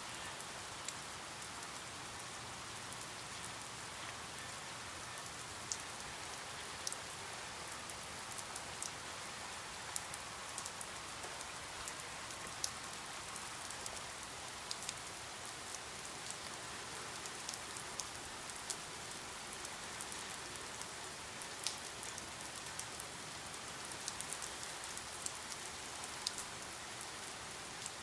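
Steady rain falling, an even hiss with many sharp, irregular drop ticks striking a surface.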